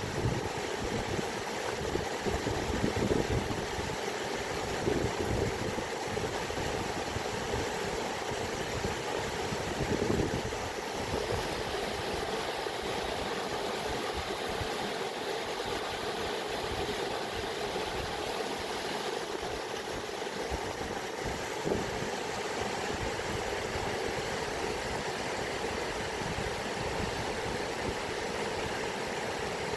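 Water flowing in a steady rush, with a few brief louder surges.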